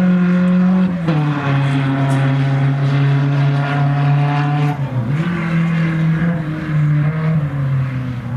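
Race car engine running hard around a dirt oval, its pitch stepping down about a second in and dipping again near five seconds as the throttle lifts for the turns, then picking back up.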